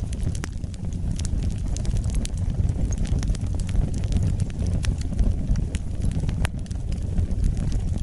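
Wood fire burning, a steady low rumble of flame with scattered sharp crackles and pops, several a second.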